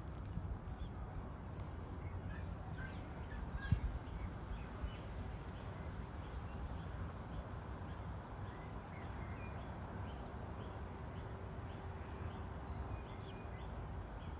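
Outdoor ambience: a steady low rumble of wind with a small bird's short, high chirp repeating about twice a second.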